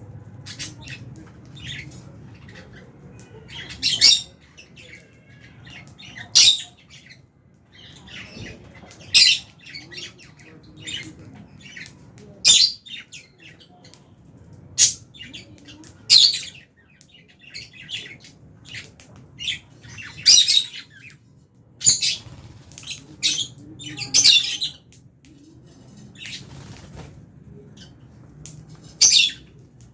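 A flock of lovebirds calling: short, shrill squawks and chirps every second or two over a low background hum.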